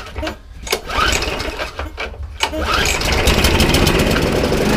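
Briggs & Stratton lawnmower engine being pull-started, coughing over with a few short strokes and then catching about three seconds in and running at high revs. It wants to rev its head off, which the owner puts down to the throttle linkage.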